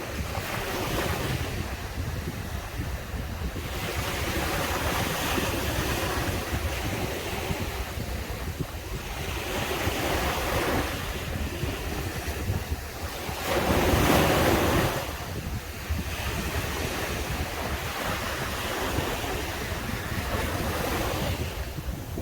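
Caribbean surf: waves breaking and washing up the beach in repeated swells, the loudest crash about two-thirds of the way in, with a steady low wind rumble on the microphone.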